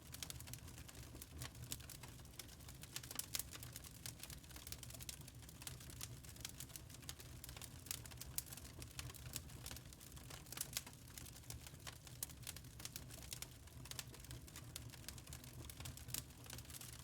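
Wood fire crackling in a fireplace: a steady stream of small sharp pops and snaps over a low rumble.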